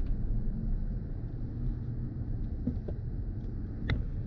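Low, steady rumble of road and wind noise inside the cabin of a BMW i4 M50 with a window open. A single sharp click sounds near the end.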